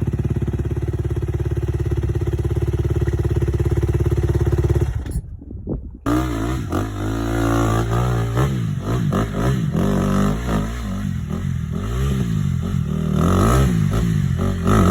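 Dirt bike engine held at steady revs, then breaking off abruptly about five seconds in. After a second's gap it revs up and down again and again over rough ground, with some clatter.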